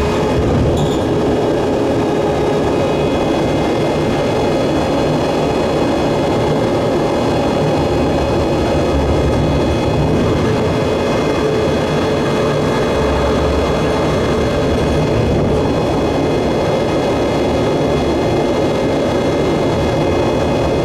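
Train running along the track, heard from on board: a steady drone of running gear and motor, with thin steady whining tones above it.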